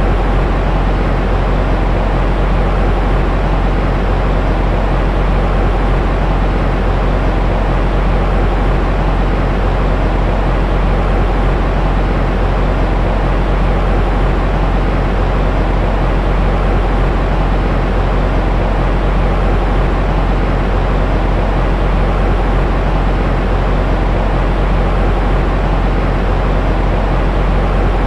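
Steady white noise for lulling a baby to sleep, deep and rumbling rather than hissy, unchanging throughout.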